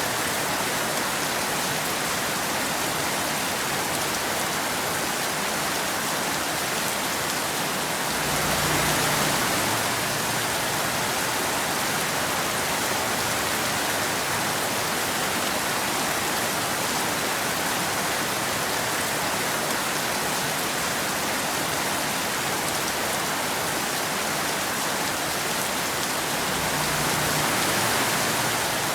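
Steady rain falling in an even hiss, with two brief swells that bring a low rumble, about a third of the way in and again near the end.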